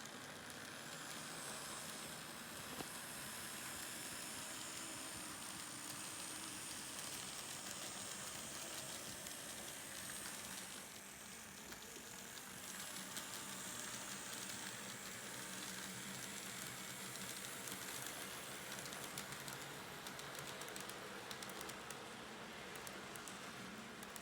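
A train running: a steady hiss with fine, rapid clicks, dipping slightly about eleven seconds in.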